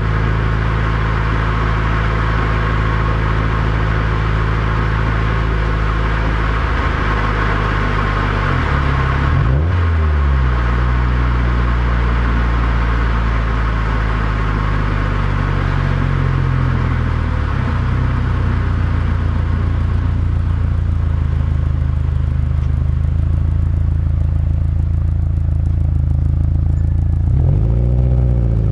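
Subaru WRX STI's turbocharged 2.0-litre flat-four boxer engine and exhaust under way, picked up by a microphone outside the car, with road noise. The engine note holds steady, dipping and climbing again about ten seconds in and near the end.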